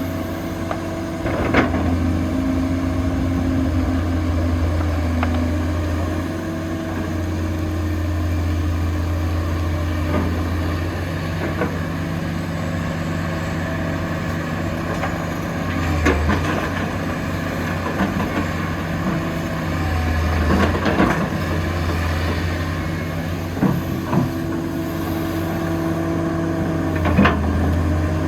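Heavy diesel engine of construction machinery running steadily at a constant speed, with a few short knocks about two seconds in, in the middle and near the end.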